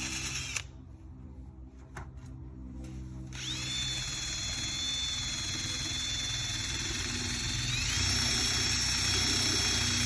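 Electric power sander running, then cutting out about half a second in. After a short lull with a few faint clicks, it starts up again with a steady high whine that jumps higher in pitch and louder about eight seconds in.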